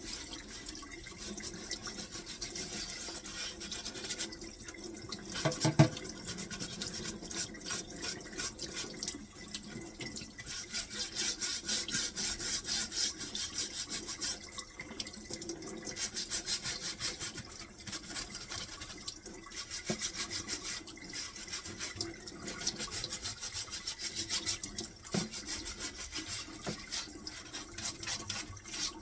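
Bottle brush scrubbing a dishwasher filter under running tap water in rapid back-and-forth strokes, with a single loud knock about six seconds in.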